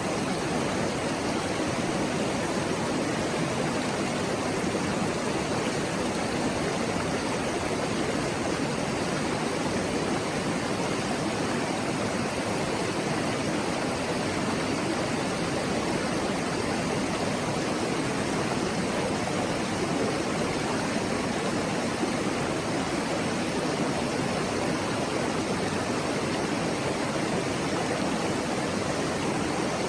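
River water murmuring steadily, an even, unbroken rush of flowing water.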